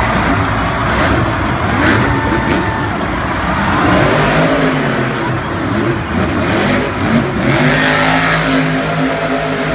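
Monster truck engine running loud, its pitch wavering up and down with revs, then holding steadier near the end.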